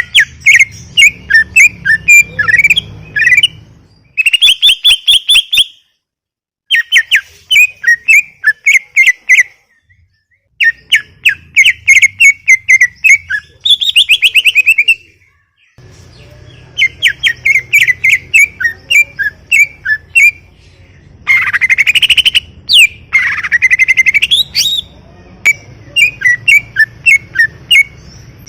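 Cucak ijo (greater green leafbird) singing in full, continuous 'gacor' form: quick runs of sharp, high chirping notes in phrases a few seconds long, with short pauses between. Near the end come two long rising whistled sweeps.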